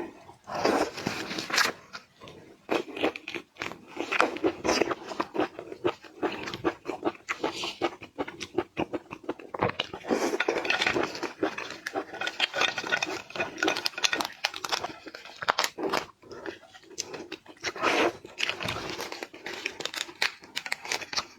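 Close-miked mukbang eating of seafood: crunching, biting and chewing in a steady run of irregular crackles and clicks.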